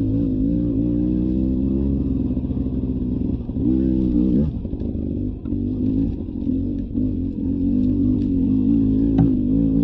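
Beta 300 RR two-stroke single-cylinder dirt bike engine running on a trail, its pitch wavering with the throttle. It revs up sharply and drops back about four seconds in. A short knock comes near the end.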